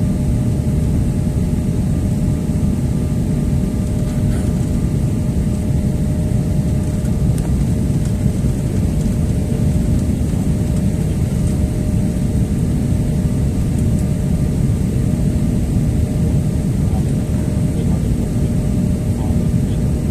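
Steady low rumble of an airliner cabin during descent, from the jet engines and the air rushing past, with a few faint steady whining tones above it.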